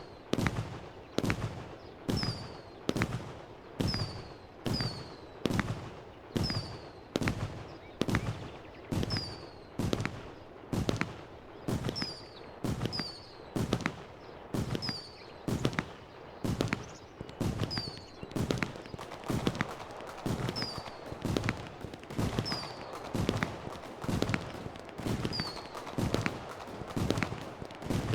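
Fireworks going off in a steady string of bangs, about one and a half a second, each with a short high falling squeal after it.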